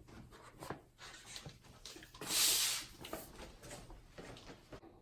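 Electrical cable being pulled and handled: scattered soft rubbing and light clicks, with one louder hissing scrape about two seconds in.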